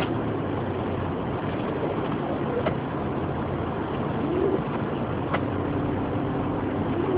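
Steady cabin noise of a Toyota 4Runner driving through deep snow: engine hum and tyre and road noise. There are a couple of faint clicks and a brief squeak about four and a half seconds in.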